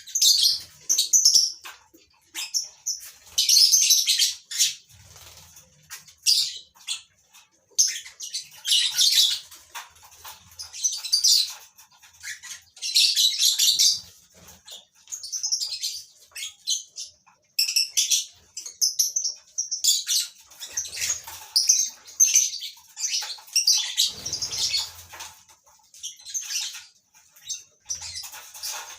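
A colony of lovebirds calling: shrill, high chirps and chatter coming in irregular bursts, several birds overlapping.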